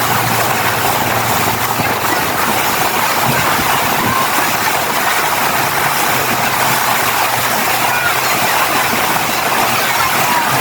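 Boat engine running steadily under way: a constant low hum under a loud, even rush of noise.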